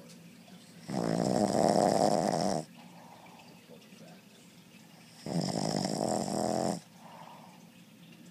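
A sleeping dog snoring: two long, loud snores about four seconds apart, each lasting about a second and a half, with quiet breathing between them.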